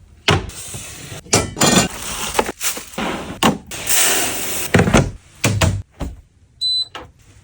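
A run of clunks, knocks and rattles of household items being handled and set down, with rustling between them and a short electronic beep about six and a half seconds in.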